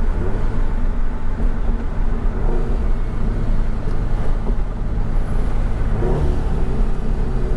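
FA20 flat-four boxer engine with aftermarket exhaust work, running steadily while driving. It is heard from inside the cabin as a low rumble mixed with road and wind noise.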